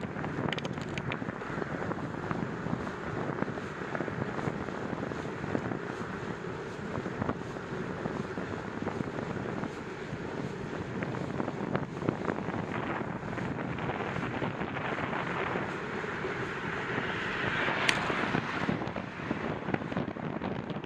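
Wind buffeting the microphone on a moving bicycle, a steady rushing noise with small clicks and knocks. Near the end it swells louder and then falls away, with a sharp click at the peak.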